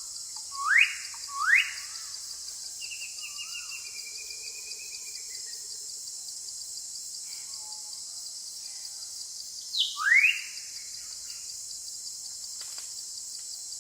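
Bird calls: two quick rising whistles near the start, a warbling trill a few seconds in, and another pair of rising whistles about ten seconds in, over a steady high hiss.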